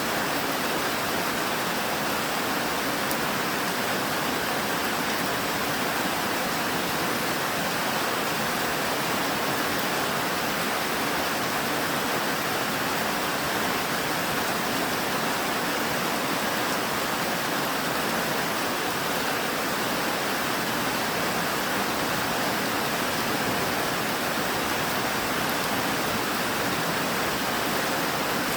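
Rain falling steadily, an even hiss without breaks or single drops standing out.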